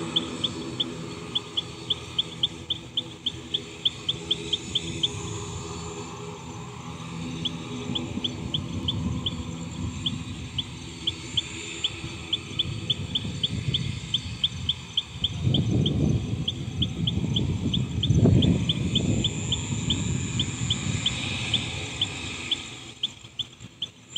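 A bird chirping over and over: short, high chirps several a second, with a brief pause about six seconds in. Beneath it a low rumble swells twice in the second half.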